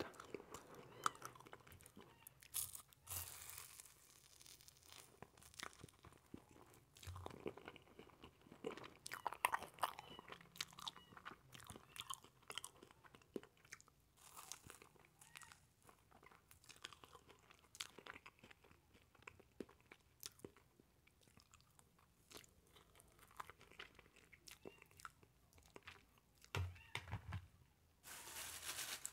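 Close-miked eating of a burnt, charred marshmallow off a spoon: biting and chewing, heard as a string of small clicks and crackles. A louder noisy stretch begins near the end.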